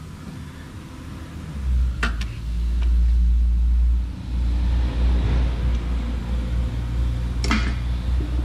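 A heavy, steady low rumble, with a few sharp metal clicks and clanks as an oil filter wrench is worked onto the oil filter to break it loose: two clicks about two seconds in and a louder clank near the end.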